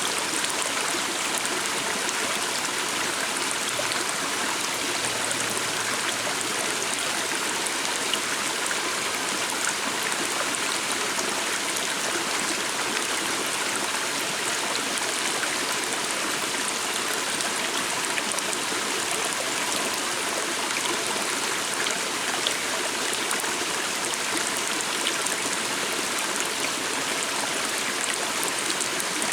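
Steady rush and babble of a flowing stream, even throughout.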